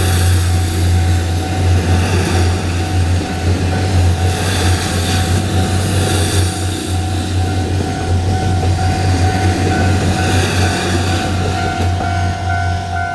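Taiwan Railways DR3000-series diesel multiple unit passing over a level crossing: a steady low diesel drone, with wheel clatter on the rails swelling again every couple of seconds. The crossing's warning bell keeps ringing in a repeating tone, heard more clearly near the end as the train noise drops.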